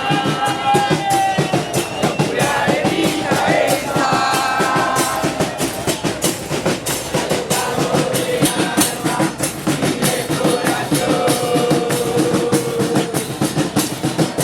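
A crowd of football supporters singing a chant over steady, rhythmic drum beats.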